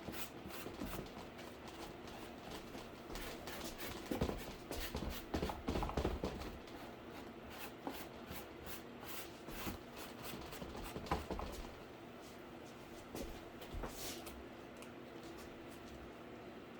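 Rubbing and scattered taps and knocks of paint being applied to a cardboard PC case while it is handled, busiest a few seconds in, over a faint steady hum.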